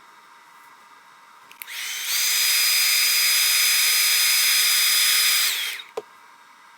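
Handheld hot-air blower clicked on, running with a steady high whine and rush of air for about four seconds, then winding down and clicked off. It is warming the adhesive that holds the cracked screen glass.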